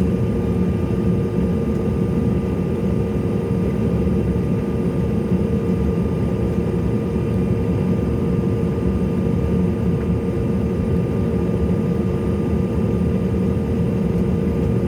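Steady jet engine noise heard inside the cabin of a Bombardier CRJ-700: the rear-mounted GE CF34 turbofans run at a constant setting, giving a low rumble with an even whine over it.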